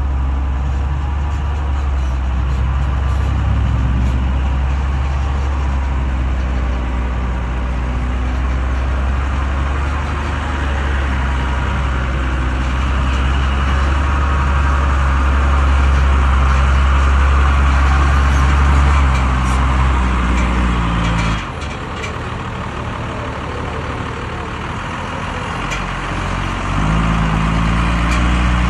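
A truck engine running steadily, dropping to a lower, quieter note about 21 seconds in, then picking up again near the end.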